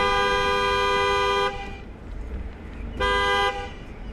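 Car horn sounding two notes together: a long blast that stops about a second and a half in, then a short second toot about three seconds in.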